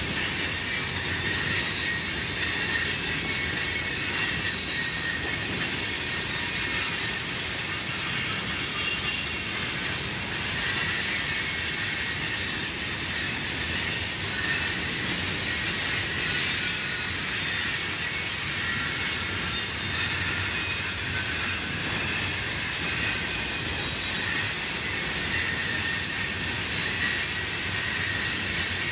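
Florida East Coast Railway freight train rolling past, its cars' steel wheels on the rails giving a steady high squeal over a low rumble.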